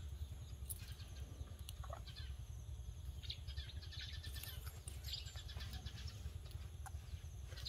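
Faint birds chirping in short, rapid high trills over a steady low rumble.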